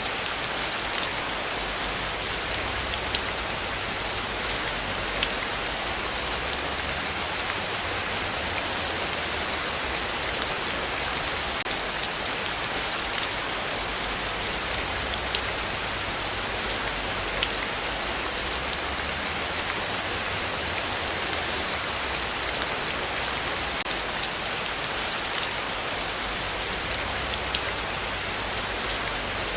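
Heavy rain falling steadily: a dense hiss with scattered individual drops ticking through it, over a low rumble that comes and goes.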